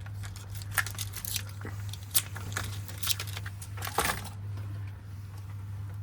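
Small clicks, taps and rustles of door lock parts being handled and fitted by hand, bunched in the first four seconds, over a low steady hum.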